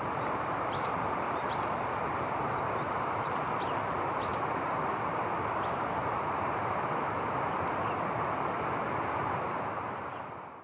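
Small birds giving short, high chirps, a dozen or so, mostly in the first half, over a steady loud rushing noise. The sound fades out near the end.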